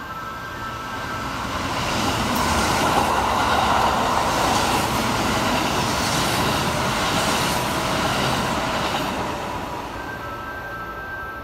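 Kintetsu Osaka Line train running through a station at speed without stopping. The rush of wheels on rail swells, holds loud through the middle with a regular clatter, then fades near the end.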